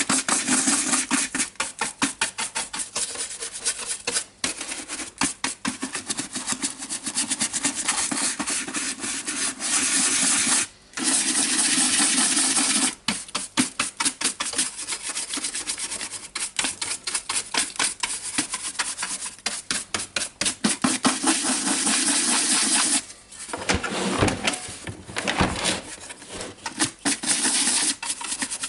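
Rapid scrubbing strokes of a detailing brush on the dusty plastic of a DeWalt DC011 site radio, stopping briefly a few times.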